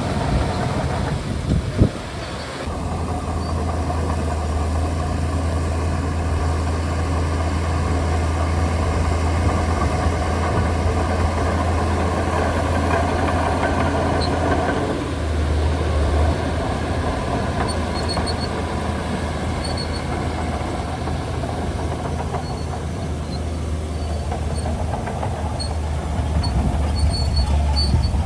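Bulldozer's diesel engine running steadily while working, with a sharp knock about two seconds in.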